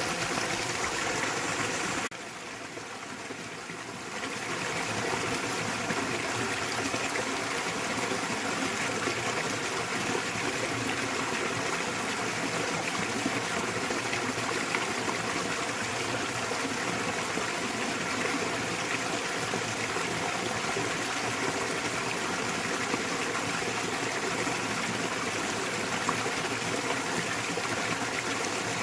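Small waterfall in a mountain stream, water splashing and running steadily. About two seconds in, the sound drops quieter for about two seconds, then comes back to its steady level.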